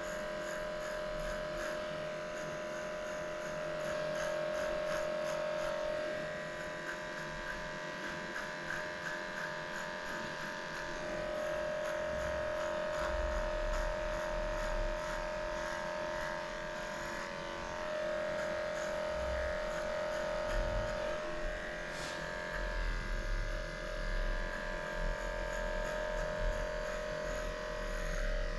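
Electric dog-grooming clippers with an 8.5 blade running with a steady hum, shaving off a matted coat; the pitch shifts slightly a few times.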